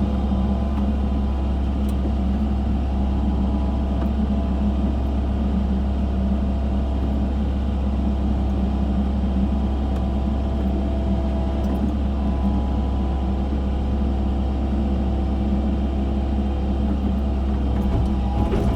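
Excavator's diesel engine running steadily under load, a constant low drone with little change in pitch.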